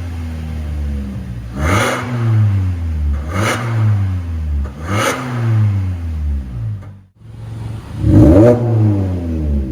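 Hyundai Elantra 1.8 four-cylinder engine blipped through an MS-R valved aftermarket exhaust muffler: four quick revs, each rising sharply and falling back, with a brief break about seven seconds in.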